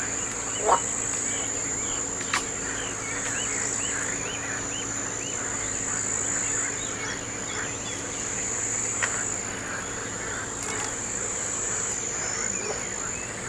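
Crickets trilling steadily on a high note, with many short chirps scattered through it and a couple of sharp clicks.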